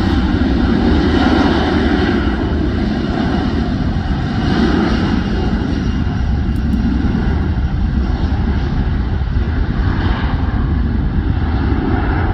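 Boeing 737's jet engines running loud and steady as the airliner passes, a deep rumble under a broad rushing noise that swells and eases slowly.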